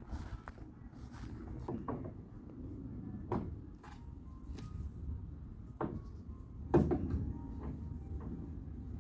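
Irregular knocks and clunks from handling the boat's tie-down gear, four or five sharp ones with the loudest about seven seconds in.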